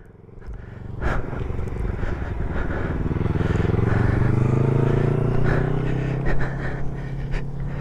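Yamaha R3's parallel-twin engine as a learner pulls away from a stop: the note climbs for about two seconds as the bike gets moving, then holds steady.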